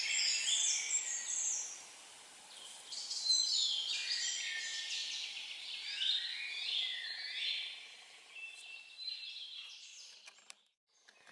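Songbirds singing: short, high, whistled song phrases repeating every two seconds or so over a faint hiss of forest air. The sound cuts out briefly near the end.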